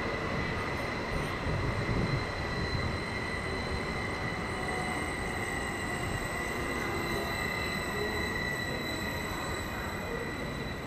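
BRB RE5 regional electric train running into the station over the rails: a steady rumble of wheels with a constant high squeal on top.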